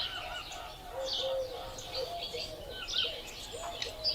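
Several birds calling at once: repeated short, low arching cooing notes under quicker, higher chirps and trills.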